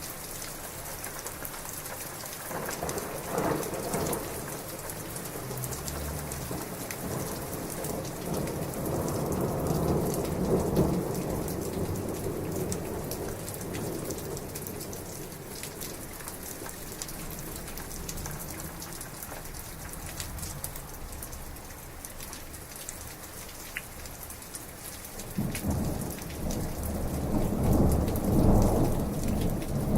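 Heavy rain falling steadily through a thunderstorm. A long roll of thunder begins about two seconds in, swells and slowly fades, and a second, louder roll of thunder builds near the end.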